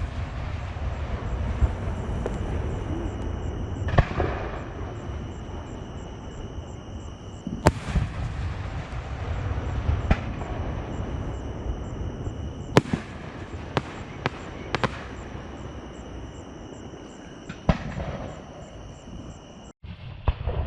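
Fireworks going off: sharp bangs at irregular intervals, four of them in quick succession just past the middle, with booming and crackle between. Insects chirr steadily in the background, and the sound drops out for a moment near the end.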